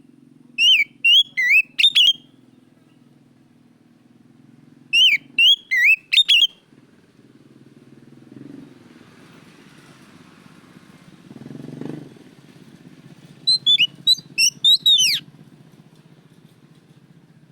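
Oriental magpie-robin (kacer) singing loud, clear whistled phrases, three short bursts of quick notes that slide up and down, with pauses between them. A faint low drone runs underneath and swells briefly a little before the last phrase.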